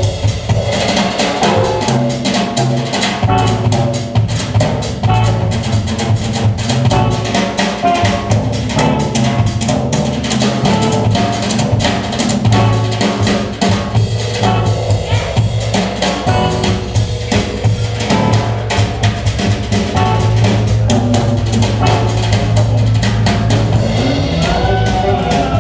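Live band playing an instrumental passage without singing: a drum kit keeps a steady beat with bass drum and snare, over sustained low bass notes.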